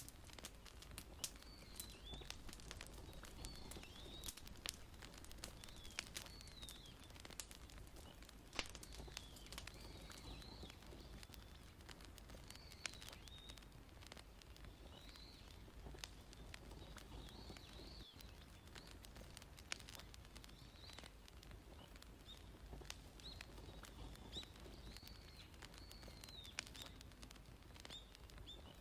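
Wood fire crackling softly, with sharp pops and snaps scattered irregularly over a low steady rumble. Faint high chirping whistles come back every couple of seconds.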